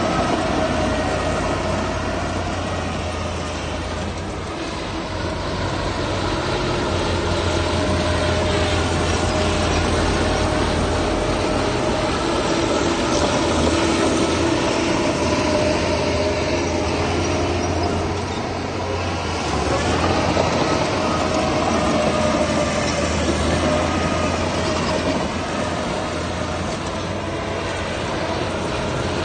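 Heavy diesel earthmoving machinery running steadily at work, a low engine drone with a steady whine above it.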